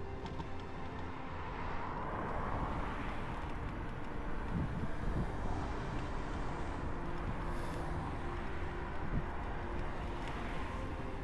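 Road traffic: a steady low rumble with vehicles going past, swelling about two seconds in and again near the end.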